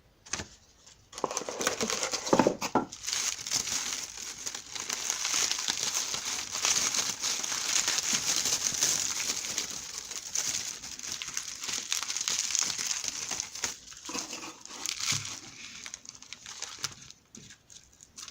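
Packaging being unwrapped and handled, with continuous crinkling and rustling of paper or plastic wrapping and a few sharp crackles.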